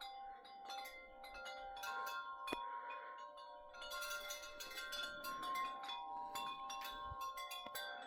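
Wind chimes ringing in gusty wind, many overlapping tones at different pitches struck over and over, busiest about halfway through.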